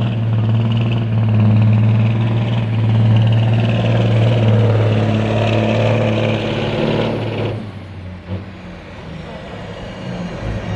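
Semi truck's diesel engine pulling hard under load at a steady pitch. It drops off sharply about seven and a half seconds in, leaving a quieter, lower running sound.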